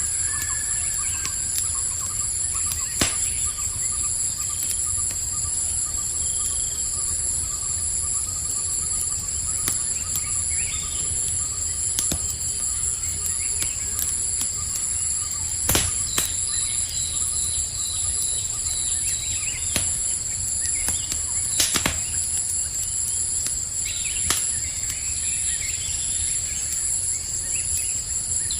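Campfire crackling with a few sharp pops, over a steady chorus of night insects such as crickets and a few faint bird chirps.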